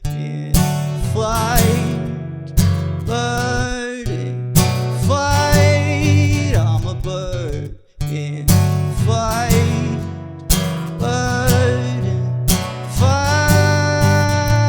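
Band music with guitar in an instrumental passage: a wavering lead line over steady low notes, phrases starting sharply every couple of seconds, with a brief full stop about eight seconds in.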